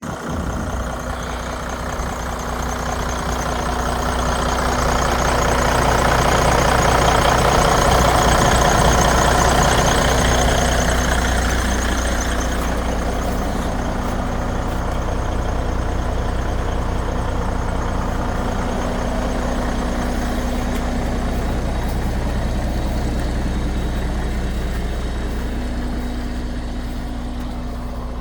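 Detroit Diesel DD15 inline-six diesel engine of a 2010 Freightliner semi idling steadily, growing louder for several seconds around the middle and then easing back.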